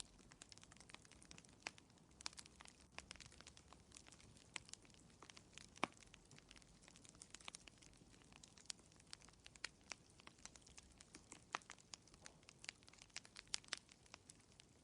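Fireplace fire crackling softly: irregular sharp pops and snaps, a few a second, over a faint hiss.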